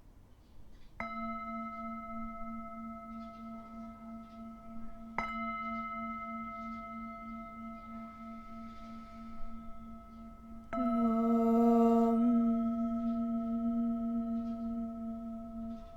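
Singing bowl struck three times, a few seconds apart, each strike ringing on with a slow wobble in its low tone. The third strike is the loudest and brightest, with extra overtones that fade within a second or two while the main tones sustain.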